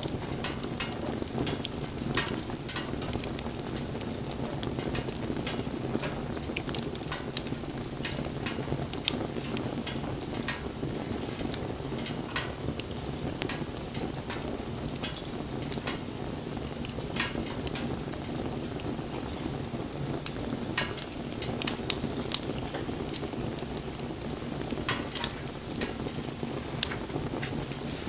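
Wood campfire burning: a steady low rush of flame with irregular sharp crackles and pops from the burning wood.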